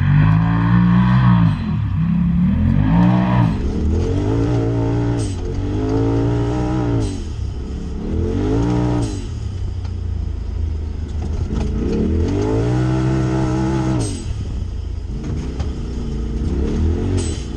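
An engine revving up and dropping back again and again, a rise and fall about every two seconds.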